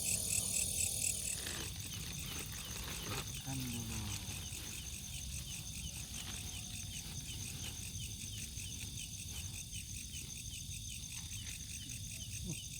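Night insect chorus, crickets chirping in fast, even, high-pitched pulses, several layered together without a break.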